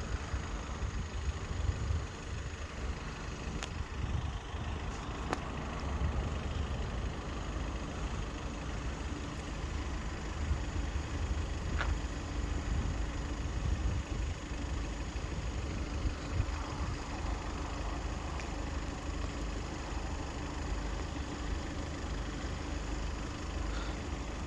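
Road vehicles' engines running and idling steadily, with a low, fluctuating rumble of wind on the microphone.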